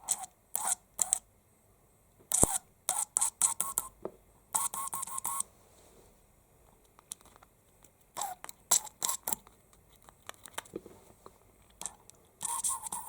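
Short, irregular hissing puffs of air forced through a hose on a chainsaw carburetor's fuel inlet, testing whether the inlet needle valve opens and shuts off.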